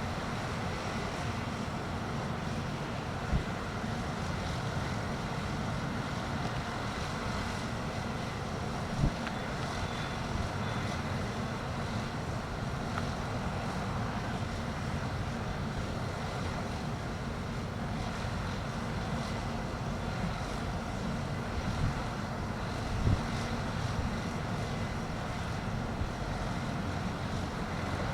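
Strong wind buffeting the microphone: a steady rumbling hiss, with a few sharp gust thumps about 3, 9 and 23 seconds in.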